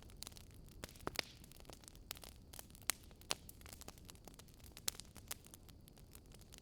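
Wood fire crackling, with irregular sharp pops and snaps, a few louder ones, over a faint steady hum.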